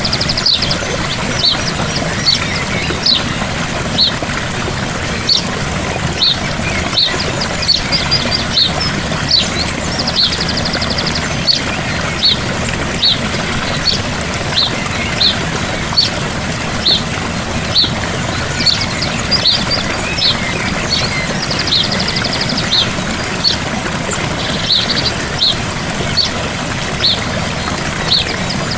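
Gentle waterfall with a steady rush of falling water. Over it a bird gives short high chirps about once or twice a second, with a brief rapid trill twice.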